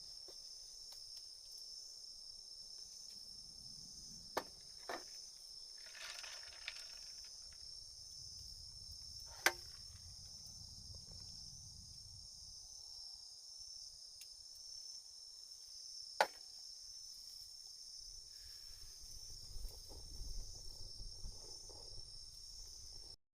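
A steady chorus of autumn crickets and other insects, a high continuous trill. A few sharp clicks stand out over it, and there is some soft low rumbling.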